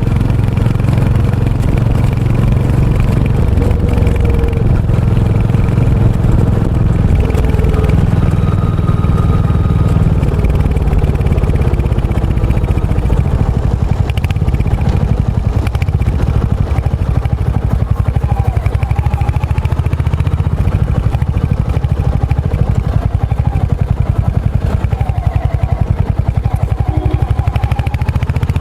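Royal Enfield Hunter 350's single-cylinder engine and exhaust running steadily while riding. The separate exhaust beats become easier to pick out in the second half.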